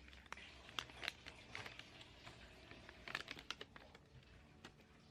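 Faint crinkling and light clicking as a Tegaderm-type adhesive film dressing and its backing paper are handled, in two short bursts about a second in and again past three seconds.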